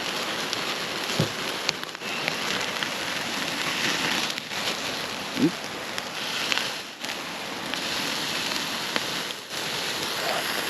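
Campfire crackling with burgers sizzling on a grill over it: a steady hiss with scattered pops and a couple of brief squeals.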